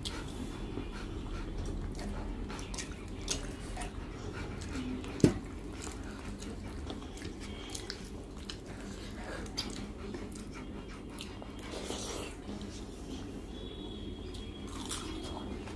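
Close-miked eating of rice and curry by hand: chewing, lip smacks and wet squelches of fingers mixing the food, heard as many small scattered clicks. One sharp click about five seconds in is the loudest sound.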